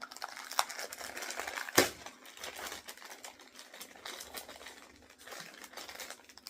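Incense-cone packaging crinkling and rustling as it is handled and opened, full of small crackles, with one sharp click a little under two seconds in.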